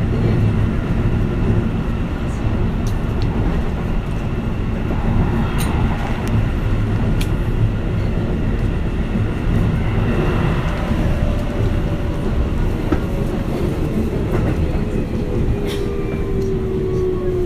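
Keihan Katano Line electric commuter train heard from inside the car while running: a steady rumble of wheels on rail with a few sharp clicks. From about ten seconds in, the traction motors' whine slides steadily down in pitch as the train slows.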